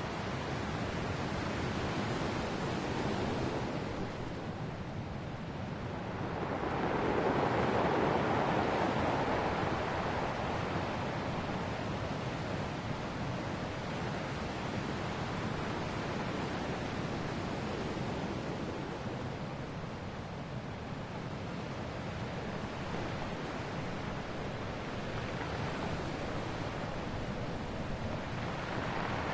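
Ocean surf washing steadily on a shore. One larger wave swells about seven seconds in and fades away over several seconds.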